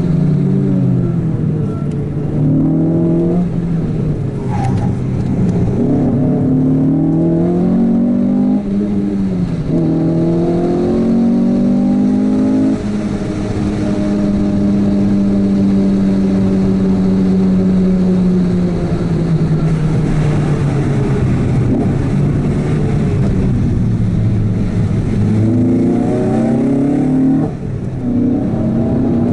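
Renault Clio 197 R27's 2.0-litre four-cylinder engine, fitted with an Akrapovic exhaust, heard from inside the cabin under way. The revs climb and drop back several times, as at gear changes, then hold steady and sink slowly through the middle before climbing again near the end.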